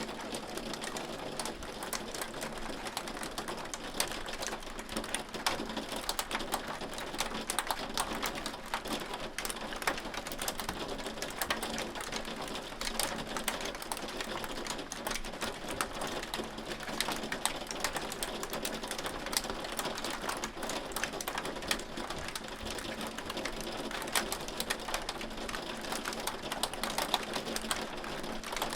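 Hail falling steadily, a dense patter of small sharp ticks that never lets up.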